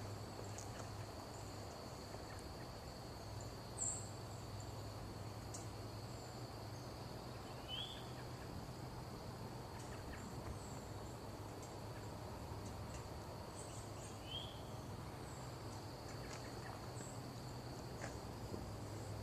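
Quiet outdoor ambience: a steady low hum with a few short, scattered bird chirps and a faint steady high tone.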